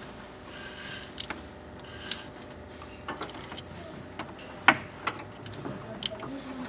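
Hand tools clicking and clanking on metal during fan belt work on a Nissan pickup: a dozen or so scattered sharp knocks, one much louder about two-thirds of the way through, over a faint steady hum.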